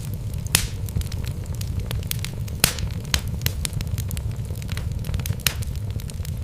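Wood logs burning in a fireplace: irregular sharp crackles and pops, the loudest about half a second in, near the middle and near the end, over a steady low rumble of the fire.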